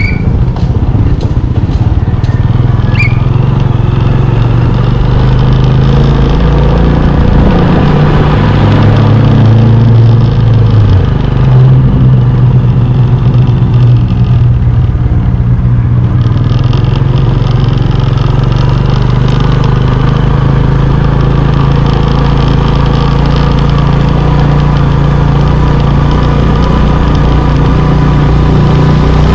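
Motorbike engine running steadily while riding, its note dropping for a few seconds near the middle and then picking up again as the speed changes.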